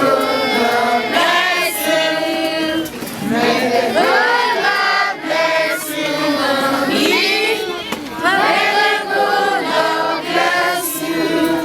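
A group of voices, children's among them, singing together in chorus.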